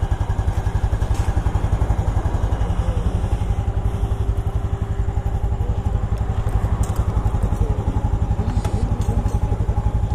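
Yamaha Lagenda 115ZR underbone motorcycle engine idling in neutral, a steady rapid low pulse close by.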